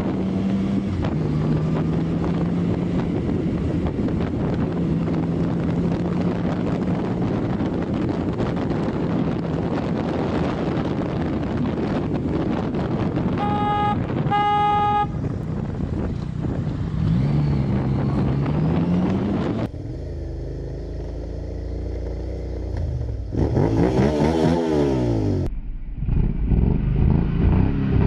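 Motorcycle engine running steadily at road speed with wind noise; a horn sounds twice, briefly, about fourteen seconds in. After an abrupt change, the engine revs up and down.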